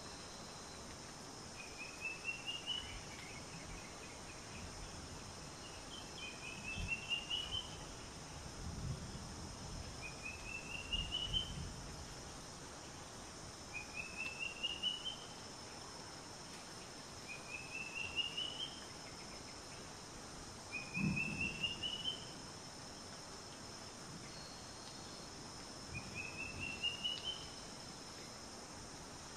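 A bird singing the same short phrase, a quick rising run of notes, about every four seconds over a steady outdoor hiss, with a few soft low rumbles.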